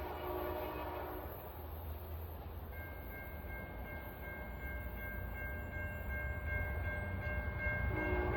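Locomotive air horn sounding a multi-note chord that cuts off about a second in and sounds again near the end, over the low rumble of a passing train.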